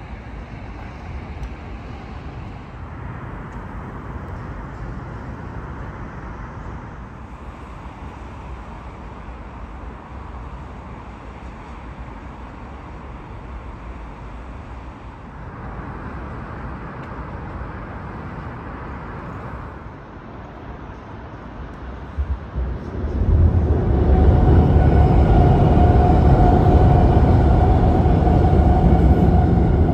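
Steady city rumble of traffic and wind for most of the stretch, then about 23 s in a double-deck electric passenger train passes close by on the adjacent track: a loud rolling rumble with a steady high tone over it.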